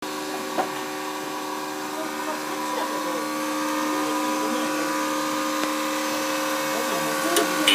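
A refrigerant recovery machine runs during recovery of a car air conditioner's refrigerant gas, giving a steady motor hum with several fixed tones. The hum grows a little louder a few seconds in.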